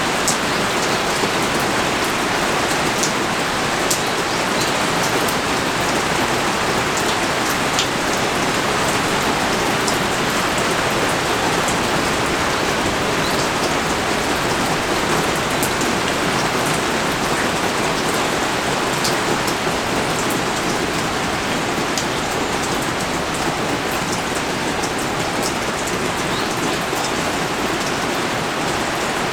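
Heavy rain pouring steadily, with scattered individual drops ticking sharply above the even hiss.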